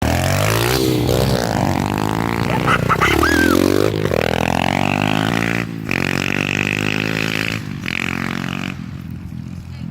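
Kawasaki KLX110 and KLX140 small single-cylinder four-stroke dirt bike engines revving hard, their pitch rising and falling as they accelerate, shift and pass by. The engines fade away near the end.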